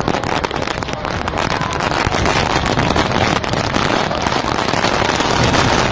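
Heavy rain pelting down, a dense crackle of many drop impacts, with wind buffeting the microphone.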